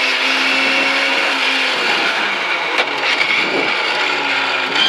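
Rally car's engine running hard, heard from inside the cabin. The engine note shifts about two seconds in, and there is one sharp knock just before three seconds.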